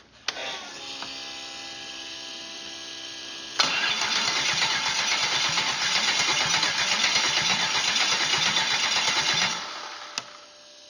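A steady whine, then, about three and a half seconds in, a 6-litre GM LS V8's starter cranking the engine for about six seconds without it catching before winding down. The engine won't fire, which is taken to mean no spark somewhere.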